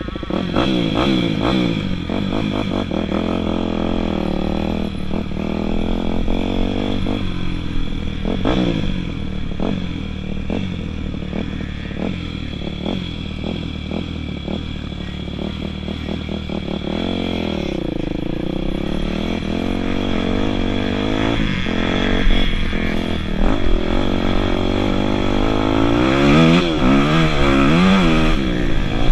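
Dirt bike engines revving up and down repeatedly, with frequent short knocks and clatter. Near the end two engines rise and fall in pitch across each other.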